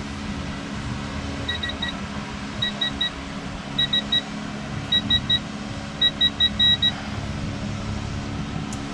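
Electronic torque wrench beeping in quick groups of three, about five groups a second or so apart, its alert that the set torque has been reached, over a steady low hum.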